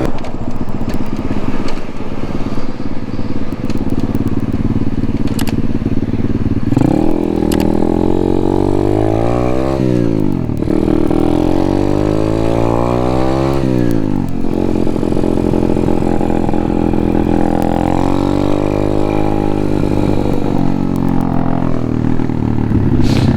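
Apollo pit bike's small single-cylinder engine under way on the street: after a few seconds of rough running it accelerates, pitch climbing and then dropping sharply twice as it shifts up through the gears, then settles into a steady cruise.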